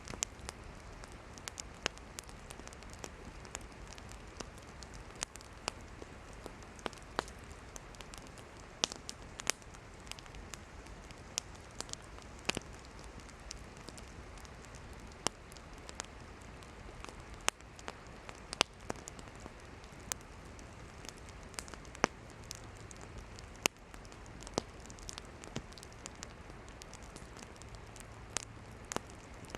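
Wood campfire burning: a steady soft hiss with irregular sharp crackles and pops of firewood, a few of them noticeably louder.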